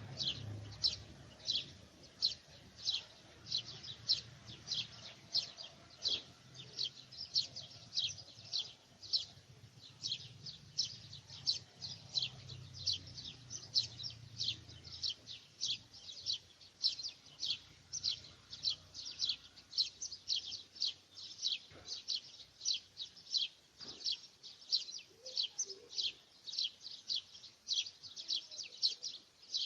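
A bird repeating a short, high chirp over and over, about two to three times a second in a steady unbroken rhythm.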